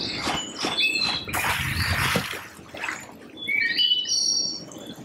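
Birds chirping and whistling, many short calls overlapping, with a brief rushing sound about a second and a half in.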